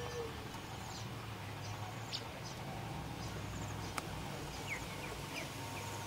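Scattered short, high bird chirps with a short falling whistle near the end, over a steady low hum.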